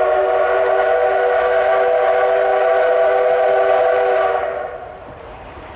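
Steam whistle of the C12 66 steam locomotive sounding one long blast, a chord of several steady tones, that fades away about four and a half seconds in.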